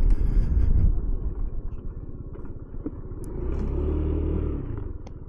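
Motor scooter engine running at low speed with a low rumble. A steadier, stronger engine note comes in for about a second from three and a half seconds in, then eases off.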